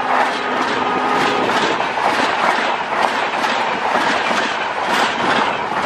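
Express train's coaches running at speed, the wheels clattering rhythmically over the rail joints with a steady rolling rush.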